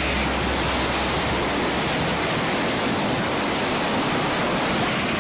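Rushing water, a steady even roar with no breaks.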